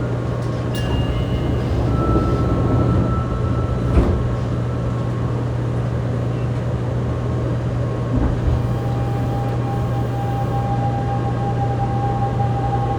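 Interior of a Fukuoka City Subway 2000 series car with a steady low hum, a single sharp knock about four seconds in, and from about eight seconds a steady whine from its Hitachi GTO-VVVF inverter traction equipment, rising slightly near the end as the train pulls away from the station.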